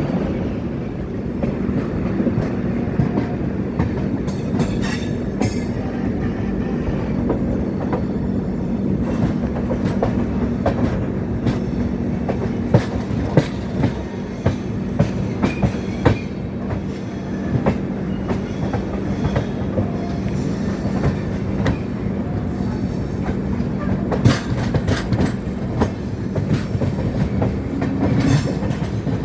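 Swaraj Express passenger train running along the track, heard from aboard a coach: a steady rumble and hum, with scattered sharp clicks of the wheels over the rails.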